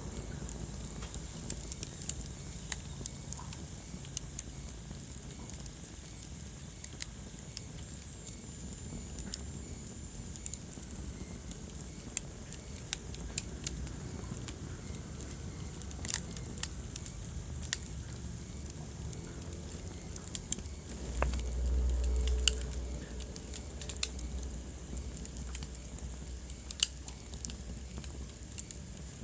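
Wood fire burning in a fireplace, crackling with scattered sharp pops over a low steady rumble of the flames. About two-thirds of the way through, the low rumble briefly swells louder.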